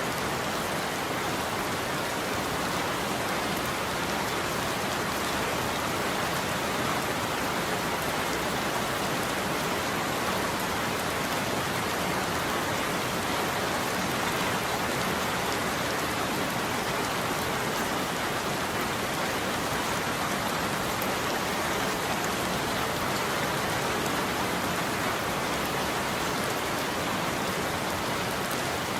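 Steady heavy rain falling on a surface, an even, unbroken hiss of drops.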